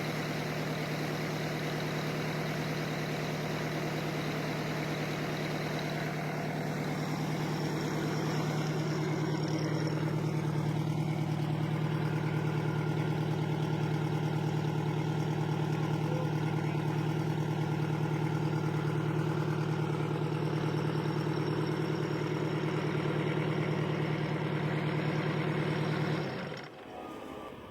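Detroit Diesel 8V92TA two-stroke V8 diesel idling steadily with a constant drone, a little louder from about eight seconds in. The sound cuts off suddenly near the end.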